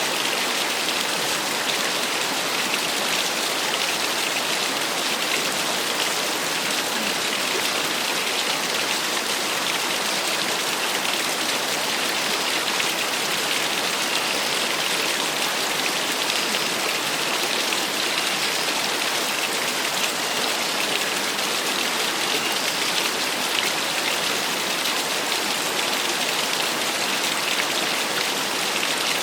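Small waterfall: water falling and splashing in a steady, unbroken rush, bright and hissy rather than deep.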